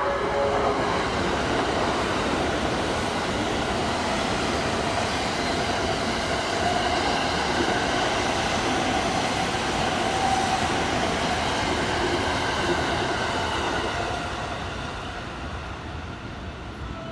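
JR 683-series electric limited express train, two sets coupled, passing through a station at speed without stopping: a steady loud rush of wheel and running noise that fades away near the end.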